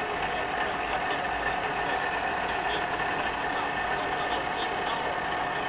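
Milling machine running steadily during gear cutting, a constant motor and spindle hum with a steady whine.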